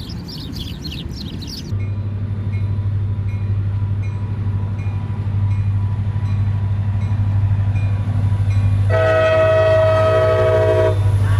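A train running past with a steady low rumble and regular clicking of the wheels. Its horn sounds once, held for about two seconds, about nine seconds in.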